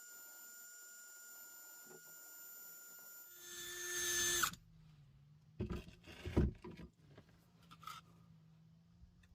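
Wire wheel spinning on a power tool, cleaning rust off the threads around a gas tank's square drain plug. The motor whine holds steady, swells louder, then cuts off about halfway through, followed by a few clunks.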